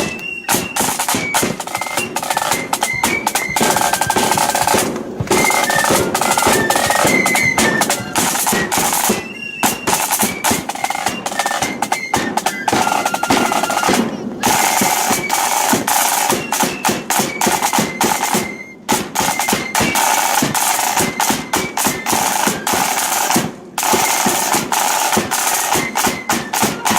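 Marching flute band playing: snare drums beating fast rolls, with short flute notes over them and a break in the drumming every few seconds.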